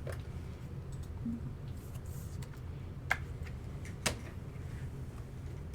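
A few faint, sharp clicks, about three spread over several seconds, over a low steady hum.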